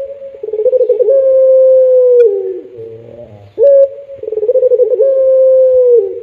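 Puter pelung dove cooing, two full calls in a row. Each call is a short opening note, a quick rolling stretch, then a long held coo that slowly falls in pitch and drops off at the end.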